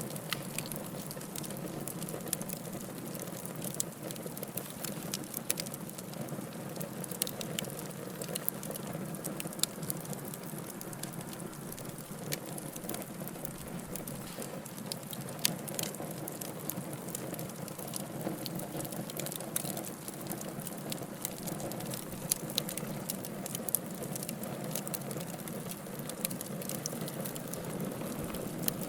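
Wood fire burning in a fireplace: a steady hiss with irregular sharp crackles and pops.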